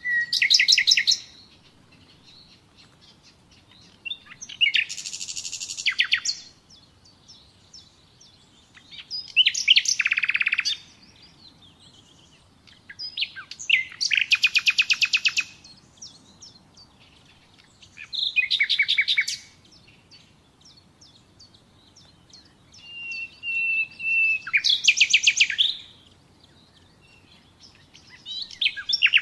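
Nightingale singing in separate phrases of fast repeated notes and trills, each a second or two long and coming every four to five seconds with short pauses between. One phrase near the end opens with a held whistled note.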